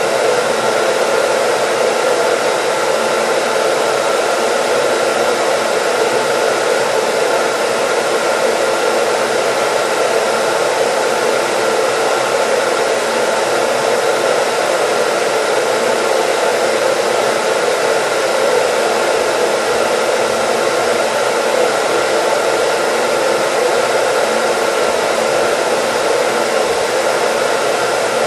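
Hair dryer running continuously on a steady setting: an even, unchanging rush of air with a faint motor hum, used as white noise.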